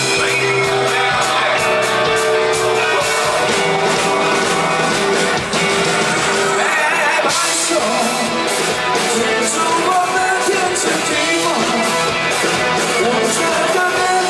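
Live rock band playing an instrumental passage between sung lines, with guitars and drums.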